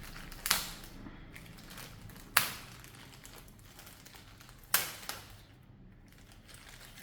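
Plastic packaging being handled and opened, with three sharp cracks about two seconds apart over a low crinkling.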